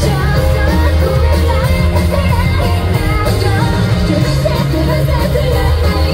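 Live rock band playing through a concert PA, recorded from the audience: a female lead voice sings over electric guitars, bass and drums.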